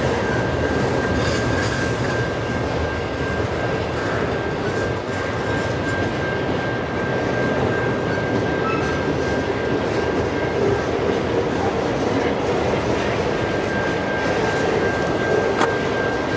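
Double-stack container cars of a freight train rolling past: a steady rumble and clatter of steel wheels on rail, with a thin, steady high-pitched squeal running through it.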